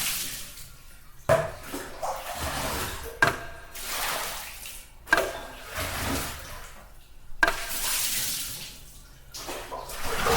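Water splashing in repeated rushes, about one every two seconds, most starting with a sharp knock.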